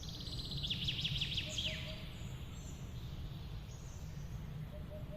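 A bird singing a quick run of falling whistled notes in the first couple of seconds, with fainter short calls later, over a steady low rumble of outdoor background noise.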